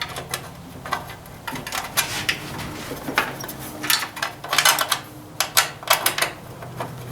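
Small metal bolts clicking and clinking irregularly as they are handled and set back into the mower engine, over a steady low hum.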